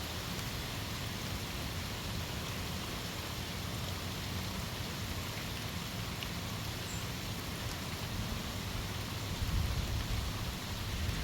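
Rain falling in a strong windstorm: a steady hiss, with a low rumble of wind on the microphone that swells briefly about nine and a half seconds in.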